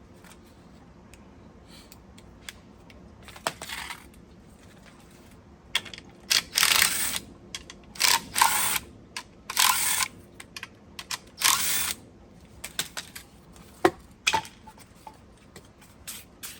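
Ratchet wrench, likely on a 7/16 socket, turning the bolts that hold the pump's motor: a series of short rasping strokes of about half a second to a second each, with scattered clicks in between.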